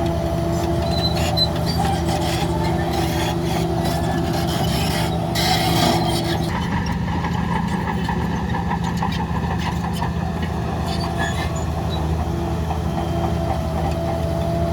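Heavy diesel earthmoving machinery running steadily, with a higher whine that stops about six seconds in and scattered clanks in the first half.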